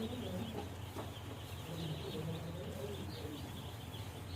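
Many day-old broiler chicks peeping together in a faint, continuous high chatter, over a steady low hum.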